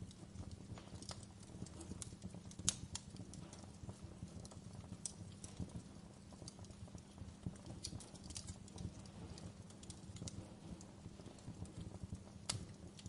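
Wood fire crackling in a fireplace: irregular pops and snaps over a low steady rumble, with a sharp louder pop about three seconds in and another near the end.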